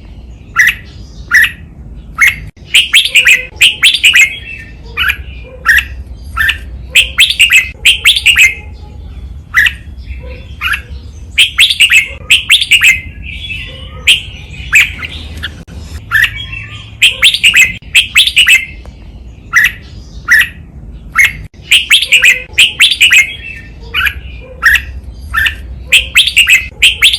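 Red-whiskered bulbul singing: loud, clipped phrases of sharp chirping notes repeated every second or two, the phrases often coming in doubled pairs, the 'double' song style used as a master song for training caged bulbuls.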